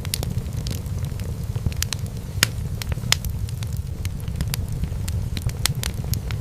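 Fireplace fire crackling: irregular sharp pops and snaps, a few a second, over a steady low rumble of burning.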